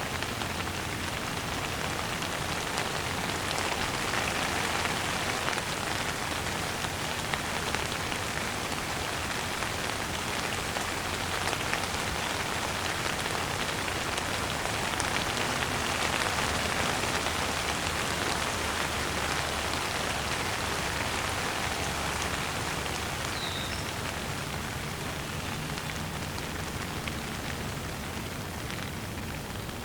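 Steady rain falling on a surface, a dense even patter of raindrops that swells slightly and eases off toward the end.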